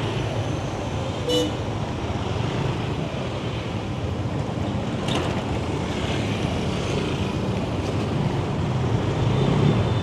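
Yamaha Nmax 155 scooter's single-cylinder engine running steadily under way, with road and wind noise from traffic. A short horn toot sounds about a second in.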